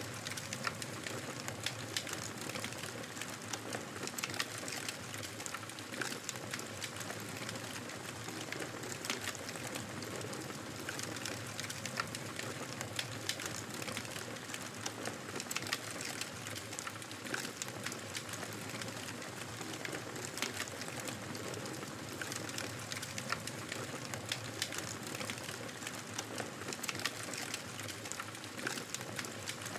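Wood fire crackling in a fireplace: a steady soft hiss with frequent small, irregular pops and snaps throughout.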